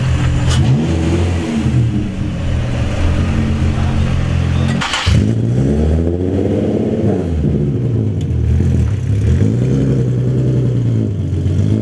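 Car engines idling and revving, rising and falling in pitch several times, with a sharp crack about five seconds in.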